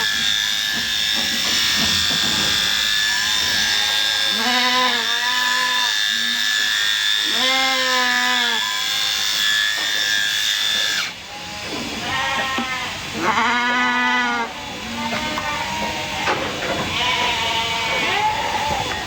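Sheep bleating repeatedly, each bleat about a second long, over the steady whine of electric sheep shears that cuts off abruptly about eleven seconds in.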